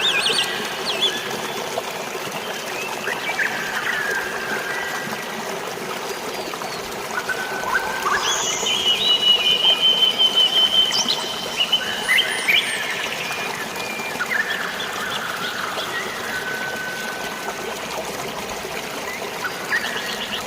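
Steady trickling, flowing water with birds chirping and whistling over it; a rapid run of repeated notes from one bird, about eight to eleven seconds in, is the loudest call.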